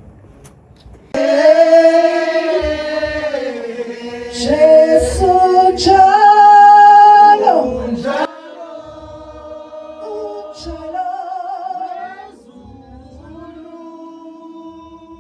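A group of voices singing together in harmony. It starts abruptly about a second in, is loud for about seven seconds, then breaks off suddenly into a quieter passage of the same singing.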